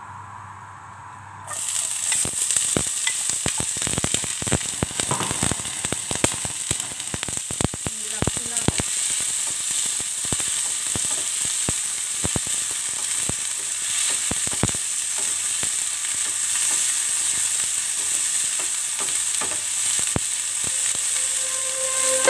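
Mixed vegetables (sweet corn, green peas and diced carrots) hit hot oil in a wok about a second and a half in, with a sudden loud sizzle. A wooden spatula stirs them, adding many scraping clicks and pops over the first half, and the frying then settles into a steady sizzle.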